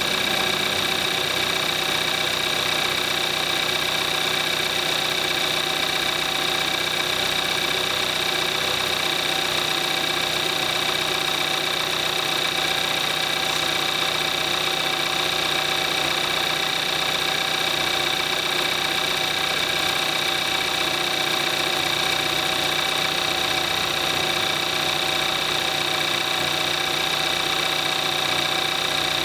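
2014 Kia Forte5's 2.0-litre GDI four-cylinder engine idling steadily, at 22,700 miles on conventional 5W-20 oil: its normal running sound, with a steady high-pitched tone over it.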